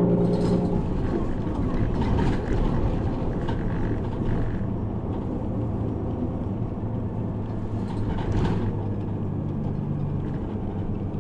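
City bus's diesel engine running and road noise heard from inside the passenger cabin while the bus drives, with a few brief rattles and bumps.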